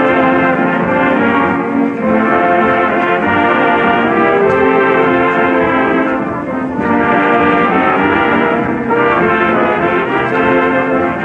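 Dance-band orchestra playing, with brass (trombones and trumpets) carrying the tune, in the thin, band-limited sound of an old radio recording.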